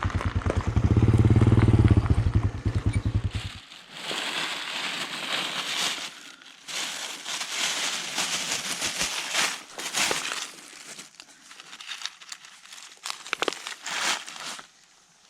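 A small engine, likely a motorcycle, runs with a steady low pulsing for about three and a half seconds and then cuts off abruptly. After that comes irregular crackling and rustling.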